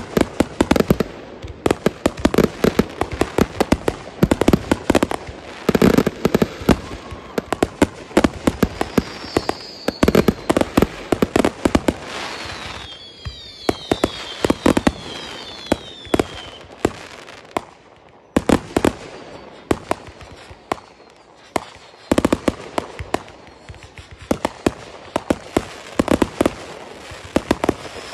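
Ground-launched fireworks firing in rapid volleys, a dense run of pops and bangs. About halfway through come several short whistles falling in pitch, and there are brief lulls between volleys.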